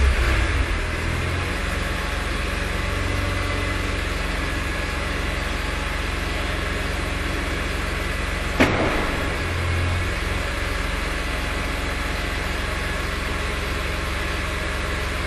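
A vehicle engine idling steadily, settling down from a rev at the start. About nine seconds in there is one sharp click, followed by a brief small rise in the engine note.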